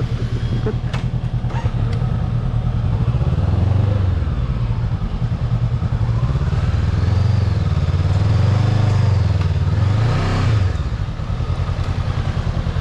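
Motorcycle engine running, its pitch rising and falling a few times with the throttle, then dropping back to a steady idle near the end.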